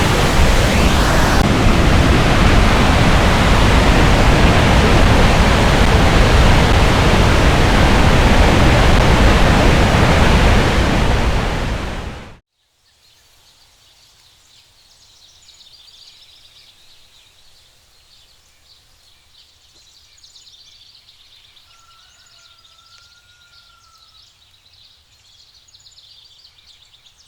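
The roar of a large waterfall, a loud, even rush of falling water that cuts off suddenly about twelve seconds in. After the cut, faint outdoor ambience with birds chirping and one short whistled note near the end.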